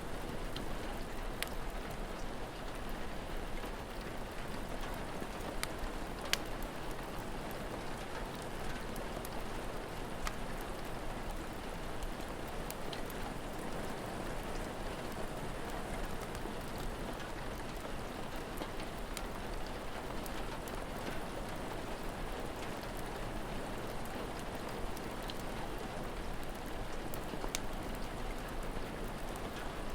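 Steady rain falling, with sharp crackles and pops from a wood fire scattered through it; the loudest pop comes about six seconds in.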